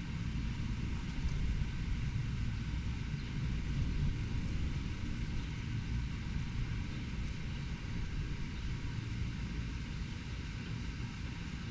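Steady low rumble of city traffic, with no separate events standing out.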